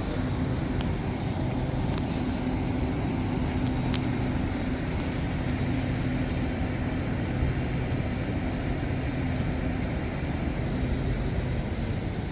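A train standing at the station platform with a steady low electrical or engine hum over a continuous station background rumble. There are a few faint clicks in the first few seconds.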